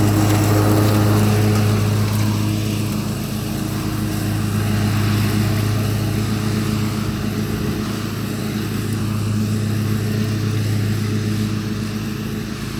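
Riding lawnmower engine running steadily, a constant low hum with no change in speed.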